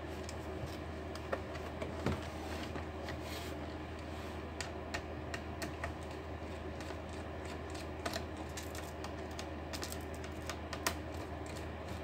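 Irregular small clicks and taps of tools and plastic parts being handled while a laptop is taken apart, over a steady low hum.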